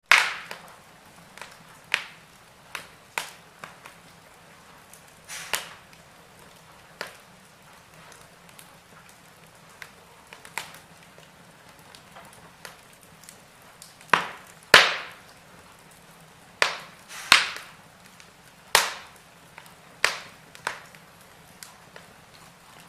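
Wood fire burning in a fireplace, crackling with sharp, irregular pops over a faint steady hiss; the loudest pops come a little past the middle.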